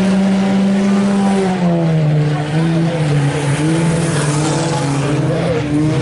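IMCA Sport Compact race cars' four-cylinder engines running hard together, several engine notes overlapping; the pitch drops about one and a half seconds in, as when drivers lift off for a turn, then wavers up and down.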